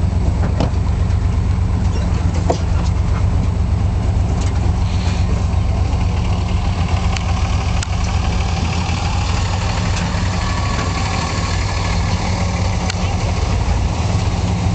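Car engine running and road noise heard from inside the cabin during a slow drive: a steady low rumble with a few faint ticks and rattles.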